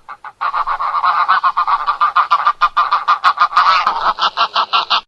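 Wild goose honking: a dense run of rapid, repeated honks in quick succession, ending abruptly.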